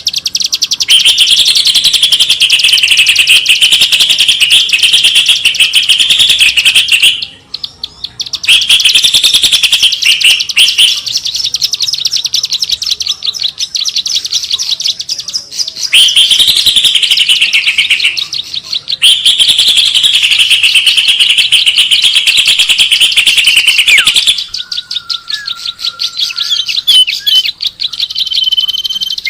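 Bird-lure call track: birds chirping in loud, very rapid high-pitched trilling runs. The chirping breaks off briefly about seven seconds in, and near the end a quieter stretch carries a lower, steady whistle.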